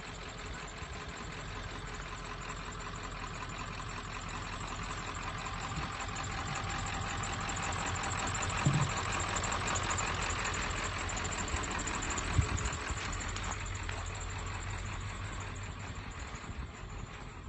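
A car's engine running as it passes, swelling to its loudest about halfway through and then fading.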